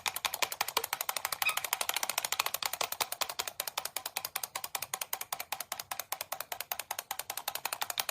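Rapid, even clicking, about ten sharp clicks a second.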